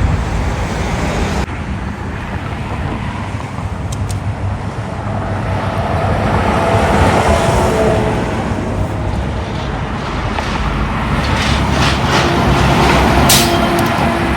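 Road traffic with trucks and cars passing. The sound swells as vehicles go by, about halfway through and again near the end.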